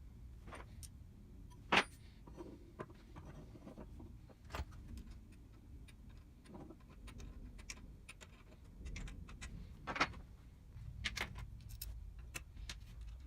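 Irregular small metallic clicks and clinks of hand tools and machine parts being handled during reassembly work, with two sharper knocks about two seconds in and about ten seconds in.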